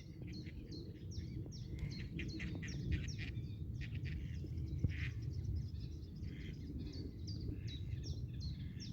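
Small birds chirping: many short, high, falling chirps in quick succession, over a steady low rumble.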